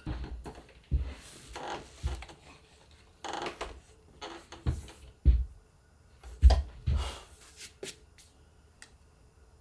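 Irregular knocks and rustling from hands working on an upholstered chair, with a few heavier thumps and some sharp clicks toward the end.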